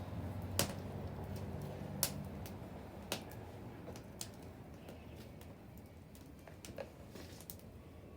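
Wood bonfire crackling, with irregular sharp pops, the loudest about half a second and two seconds in, over a soft hiss. A low hum fades out over the first couple of seconds.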